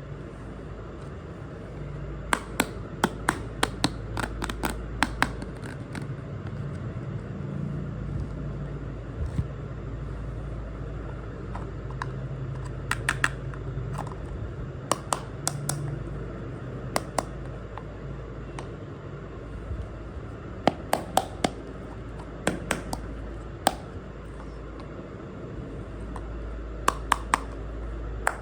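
Small miniature toy kitchen pieces clicking and tapping as they are handled and set down, in quick clusters of sharp clicks, over a steady low hum.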